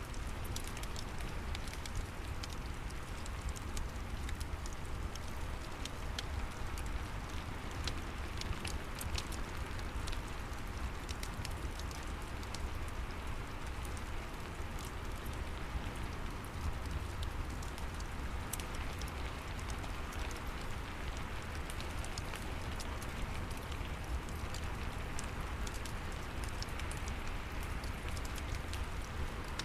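Steady rain mixed with a fireplace: an even wash of rainfall, many scattered sharp crackles from the burning fire, and a constant low rumble underneath.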